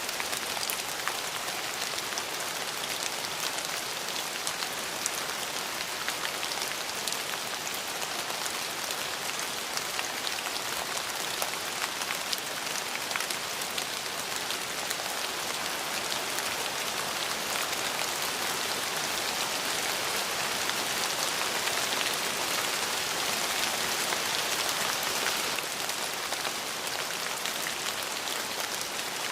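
Steady rain falling, an even hiss dotted with small crisp drop impacts, swelling slightly a little past the middle.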